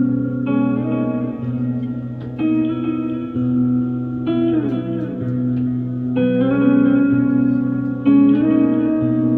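Instrumental passage of a live band song: guitar chords struck about every two seconds and left to ring over a low held note, with a downward-sliding phrase about halfway through.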